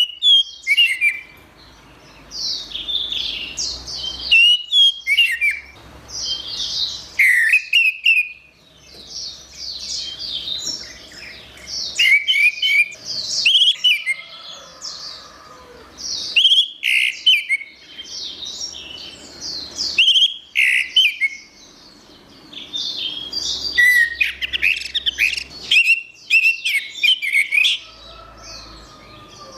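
Orange-headed thrush (anis merah) singing: a varied, loud song of quick whistled and twittering notes, delivered in phrases with short pauses between them.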